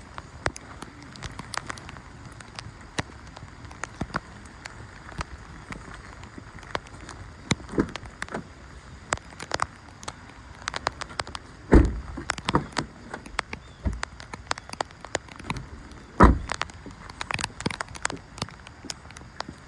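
Steady rain, with many sharp, irregular drop ticks close to the microphone over a constant hiss, and two heavier low thumps in the second half.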